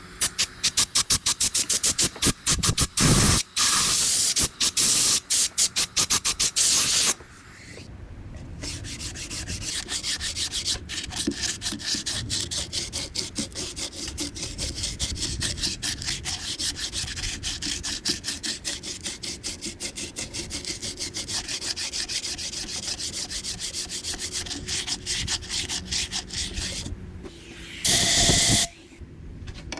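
Sanding bamboo: abrasive rubbing in quick, repeated strokes, loud for the first seven seconds, then quieter and rhythmic, with a short loud burst of rubbing near the end.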